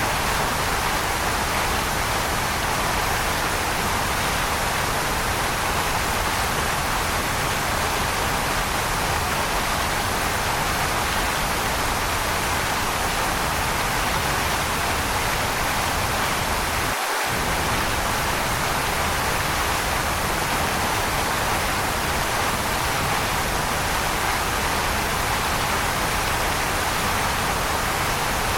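Waterfall rushing in a steady, even hiss with no change in level. About 17 seconds in, the low rumble drops out for a split second.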